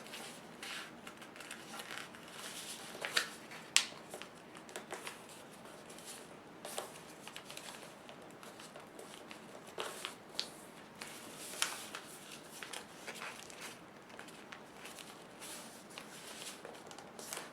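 Sheet of paper being folded and creased by hand: soft rustling with scattered sharp crinkles and snaps, the loudest a few seconds in.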